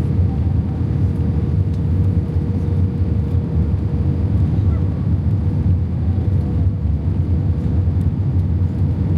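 Steady cabin noise of an Airbus A320: a low, even rumble of engines and airflow with a faint steady hum above it.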